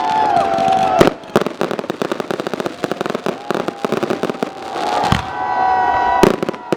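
Fireworks going off: sharp bangs and a run of rapid crackling, with whistling tones that hold and then slide down in pitch.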